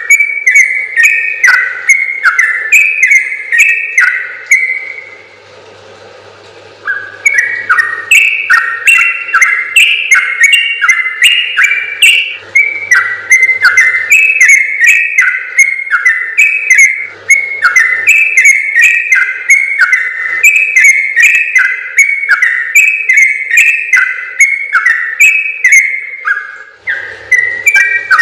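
Yellow-vented bulbul (trucukan) singing a long, fast run of short whistled notes that step up and down in pitch, with a brief break about five to seven seconds in.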